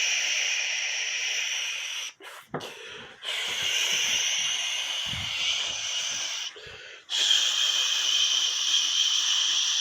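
A loud, steady hiss that cuts out abruptly twice, briefly about two seconds in and again near seven seconds, with a few low knocks in the gaps.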